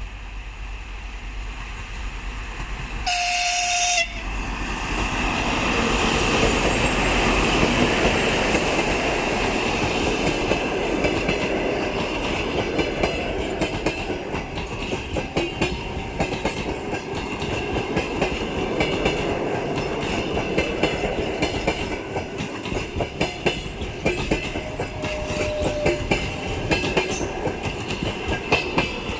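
A TEP70BS diesel passenger locomotive gives one horn blast about a second long, roughly three seconds in. The locomotive then passes, followed by its passenger cars, with wheels clattering rhythmically over the rail joints.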